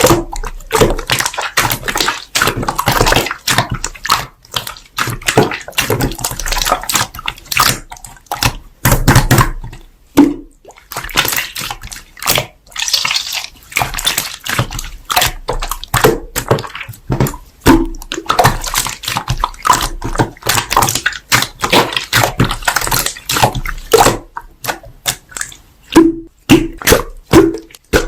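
Slime being squished, pressed and poked by hand: a run of irregular wet, sticky crackles, pops and squelches that keeps going with short pauses.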